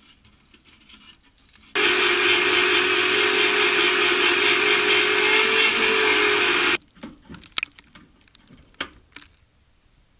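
A power cutting tool running steadily through the steel of a rusty chassis rail for about five seconds with a constant hum under a harsh hiss, then cut off abruptly. A few sharp metal knocks follow.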